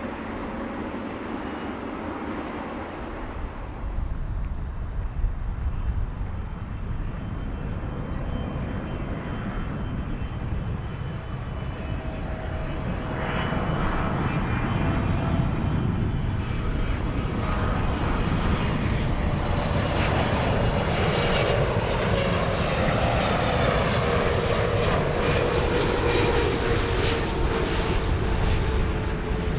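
Boeing 777 jetliner on final approach to land, flying low overhead: jet engine noise growing steadily louder, with whining engine tones that slide down in pitch in the second half as it passes.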